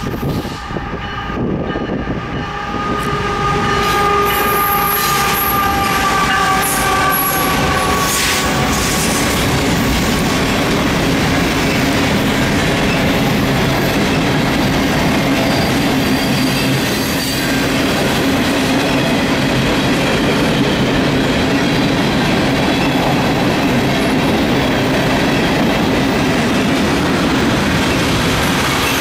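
CSX freight train's locomotive horn sounding as it passes, its chord sliding slightly lower and fading over the first several seconds, followed by the loud steady rumble and clatter of the freight cars rolling by.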